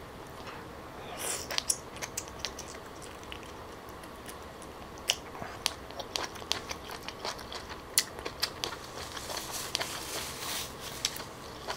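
Close-miked chewing of grilled clam meat: soft wet mouth noises and sharp little clicks at irregular intervals.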